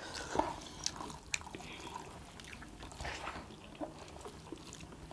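A person chewing and biting quail meat and rice close to the microphone: soft, wet chewing with a few sharp mouth clicks.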